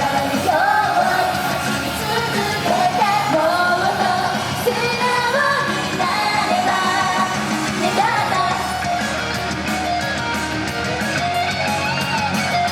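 Japanese idol group singing live over a loud band-style backing track with guitar, amplified through a PA.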